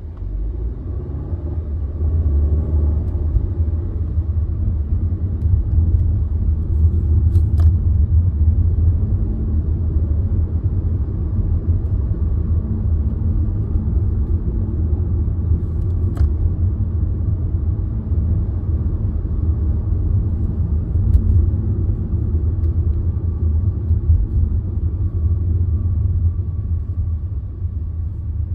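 Car running, heard from inside the cabin: a steady low rumble that grows louder about two seconds in.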